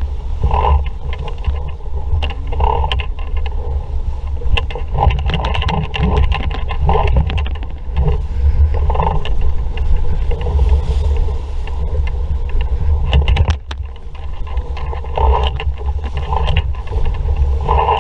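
An RS Vareo sailing dinghy under way in a strong breeze: wind buffeting the microphone and water rushing and slapping along the hull, with frequent short clicks and knocks from the boat's fittings. The rush drops briefly about three-quarters of the way through.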